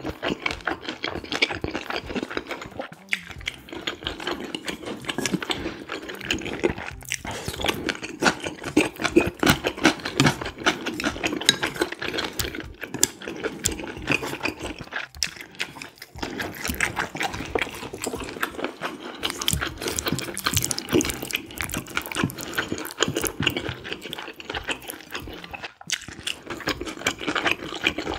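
Close-miked chewing of a mouthful of mixed rice with cucumber salad: a fast, continuous run of wet mouth clicks and crunches, with brief pauses between bites.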